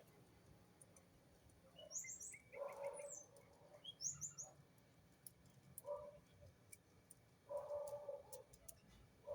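Birds chirping faintly: quick runs of short, high, falling chirps, with lower, rougher calls a few times in between.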